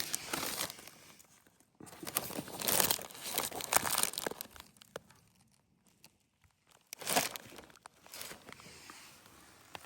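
A food wrapper crinkling and being torn open in several noisy spells, loudest about two to four seconds in.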